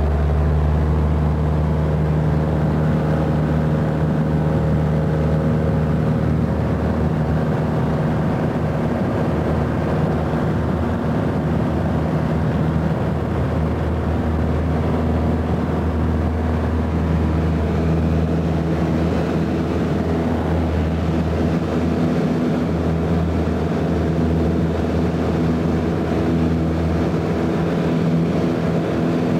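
Small propeller airplane's piston engine running steadily at a constant pitch.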